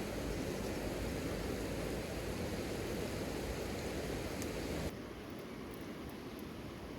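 Steady rain, a dense even hiss with a few faint ticks; it drops suddenly to a quieter, thinner hiss about five seconds in.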